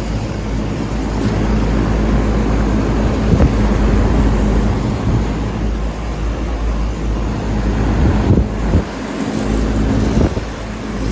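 Lennox air-conditioner outdoor units running: a steady hum from the compressors and condenser fan motors with the rush of their fans.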